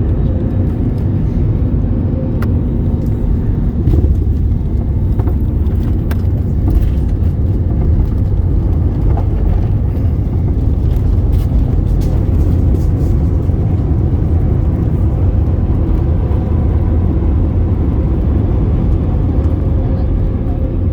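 Steady low rumble inside the cabin of a Boeing 787-8 airliner on the ground after landing, with a faint steady hum and a few light clicks over it.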